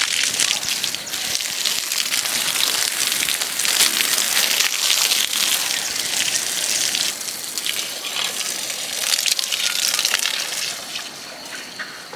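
Water gushing and spattering in a steady hiss that eases off near the end.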